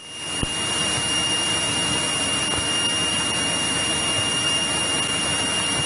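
Cockpit noise of a 1963 Cessna 172E in cruise flight: its Continental O-300-D six-cylinder engine and propeller running steadily, with a thin, steady high whine above it. The noise rises in quickly from a brief drop at the very start.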